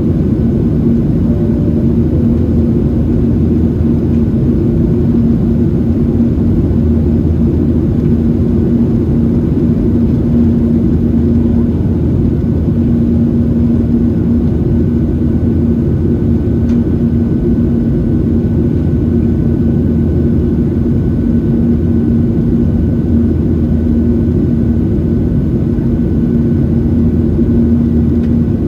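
Steady cabin noise of a Boeing 737-700, its CFM56-7B jet engines running at a constant setting: a loud, even rumble with a steady low hum and a faint high whine on top.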